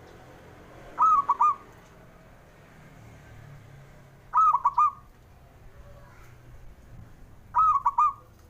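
Zebra dove (perkutut) singing its cooing song three times, about three seconds apart. Each phrase is a longer note followed by a quick run of short notes.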